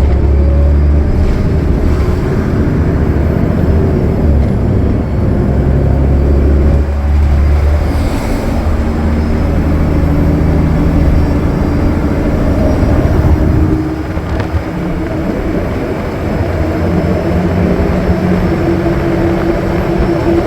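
Cummins ISL9 diesel engine of a Gillig Low Floor transit bus running steadily at highway speed, a loud low drone whose pitch shifts a little, easing slightly about two-thirds of the way through.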